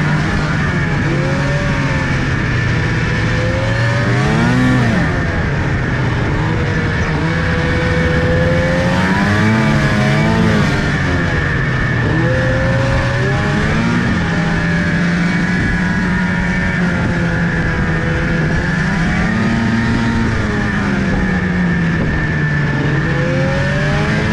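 Vehicle engine running under way, its pitch rising and falling every few seconds as the throttle is opened and eased off, over a steady high whine.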